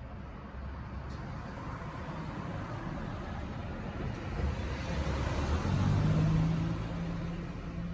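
A motor vehicle going by, its noise building gradually to a peak about six seconds in and then easing off, with a steady low engine hum in the second half.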